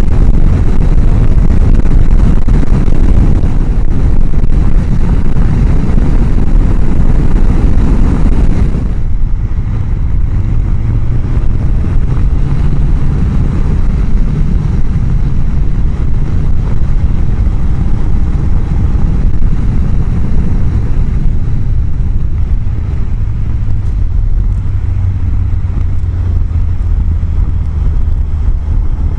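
Riding on a Honda CBR1000F: heavy wind rush on a helmet microphone mounted behind the chin-bar air vent, over the inline-four engine's drone. About nine seconds in the wind roar drops suddenly, leaving a lower, steadier engine note that rises a little a second or so later.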